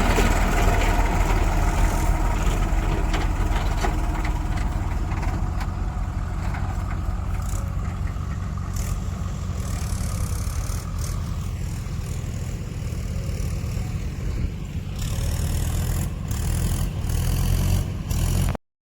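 Heavy diesel engine running steadily, with scattered knocks and clanks, growing louder in the last few seconds before the sound cuts off abruptly.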